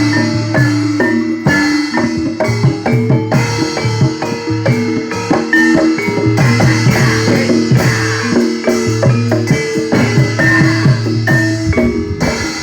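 Javanese gamelan accompaniment for a barongan dance: struck bronze metallophones ringing in a steady, repeating pattern over kendang drum strokes.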